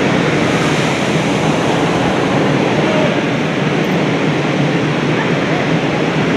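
Electric local train running, a steady rushing noise with indistinct voices mixed in.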